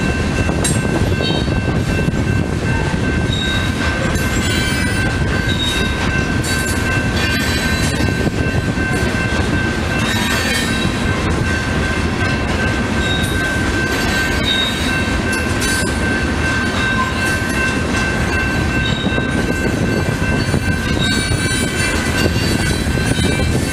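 Loaded rock hopper cars of a freight train rolling past: a steady rumble with wheels clicking over the rail joints, and a thin, continuous high squeal from the wheels.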